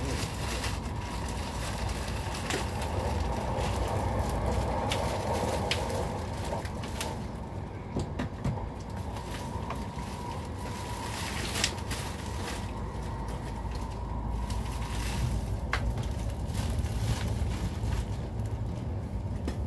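Inside a passenger coach of an Intercity train running at speed: a steady low rumble of wheels on the rails, broken by a few sharp clicks and knocks.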